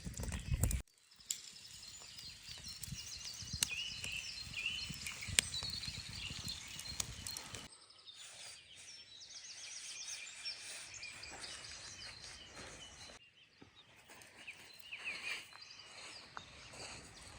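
Outdoor birdsong: many small birds chirping and singing at once over a low outdoor rumble. The sound cuts off abruptly about a second in and changes twice more later.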